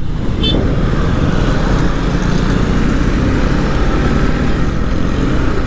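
TVS Apache RR 310 motorcycle being ridden: a steady engine and road sound with wind rushing over the microphone.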